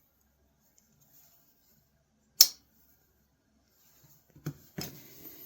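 A single sharp click about halfway through, then a few softer knocks near the end, like small metal objects being handled on a workbench.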